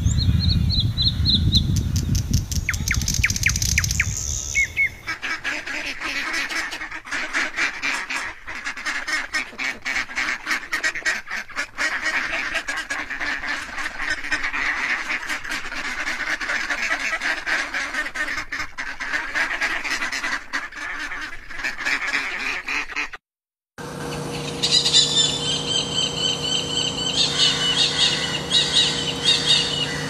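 Assorted bird calls and chirps in several changing stretches, with a brief silent break about three-quarters of the way through.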